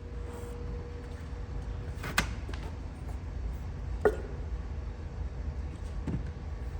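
Three sharp clicks or knocks, about two seconds apart and the first the loudest, from hand work in a car's engine bay. Under them runs a steady low rumble.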